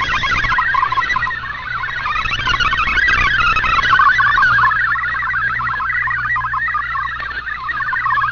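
Shortwave radio receiving a multi-tone MFSK digital data transmission: a fast, continuous warble of short beeping tones hopping up and down within a narrow band, over a steady low hum and static.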